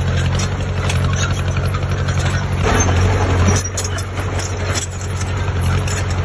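Heavy diesel machine engine running steadily, with a brief rushing noise about halfway through.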